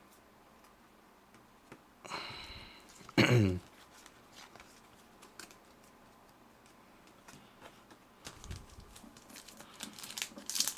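Mostly quiet room tone, broken about two seconds in by a sniff and then a short, falling vocal grunt, the loudest sound here. Near the end, the crinkle and crackle of a foil trading-card pack wrapper begins as the pack is worked open.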